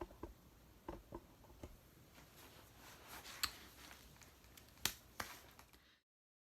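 Faint handling noises: scattered sharp clicks and taps over light rustling, two of the clicks louder than the rest, then the sound drops to dead silence about six seconds in.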